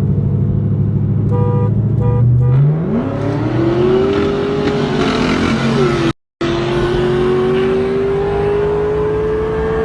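V8 car engine at full throttle in a street race: it runs steadily at low revs, then pulls hard from about three seconds in with a sharply rising pitch. The pitch dips briefly near the middle, as at a gear change, and after a short audio cut it climbs slowly again. Three short beeps sound near the start.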